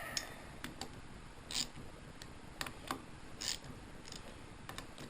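Hand ratchet with a deep-well socket clicking in short bursts as a bolt is worked loose, with a few scattered clicks of metal tools in between.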